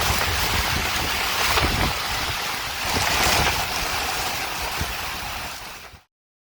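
Strong squall wind gusting, buffeting the microphone with a low rumble under a rushing hiss. It swells about three seconds in, then fades and cuts off to silence near the end.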